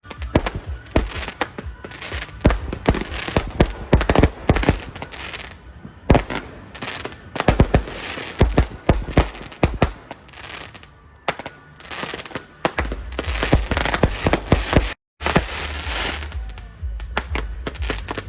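Consumer aerial fireworks going off in rapid volleys of sharp bangs and crackle, with short lulls between volleys and a low rumble in the later part.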